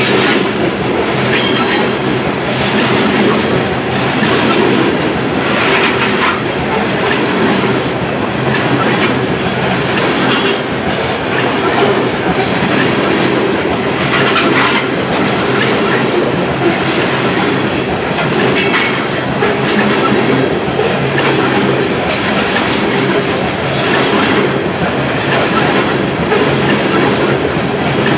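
Loaded BNSF coal train's open-top coal cars rolling past close by: a steady loud rumble of steel wheels on the rails, with repeated clicks and knocks from the wheels and trucks.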